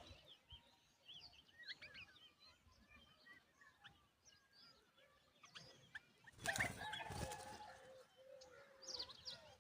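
Small birds chirping and twittering, with many short high notes. About six and a half seconds in, a rooster crows, one long call of about two seconds that is the loudest sound here.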